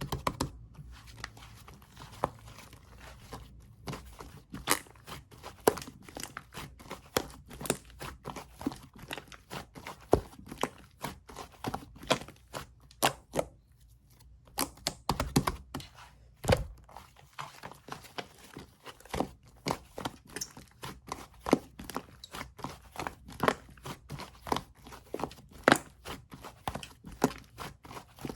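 Slime squished, pressed and stretched by hand, giving irregular sharp clicks and pops a few times a second, with a short lull about halfway through.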